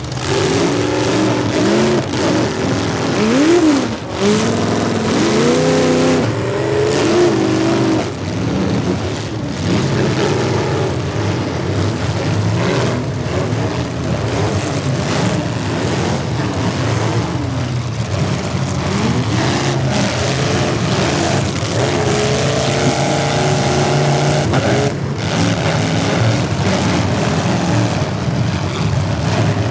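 Several demolition derby cars' engines revving up and down at once, their pitches rising and falling over one another, with a few sudden bangs.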